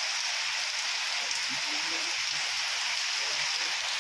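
Heavy, steady rain pouring down, an even dense hiss of rain striking the ground and surfaces.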